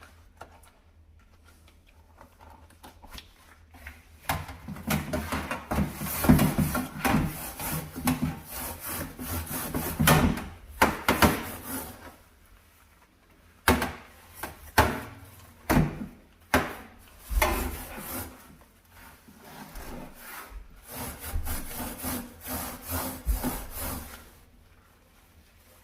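Brush scrubbing a dirty stove in runs of back-and-forth strokes. The strokes start about four seconds in, break into a few separate strokes near the middle, and pick up again before stopping near the end.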